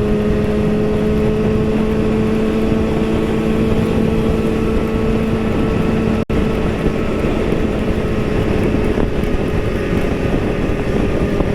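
Kawasaki motorcycle engine running at a steady cruise, with wind rushing over the microphone. The sound drops out for an instant a little past halfway.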